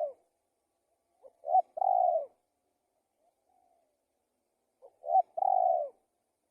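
Spotted dove (tekukur) cooing in a lively, full song. Two phrases come about three and a half seconds apart, each a short note followed by a longer, falling coo.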